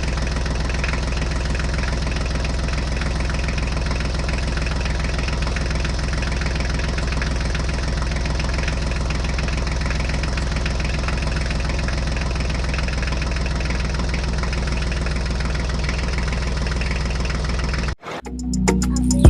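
Tractor engine idling steadily at an even pitch, then cutting off suddenly near the end.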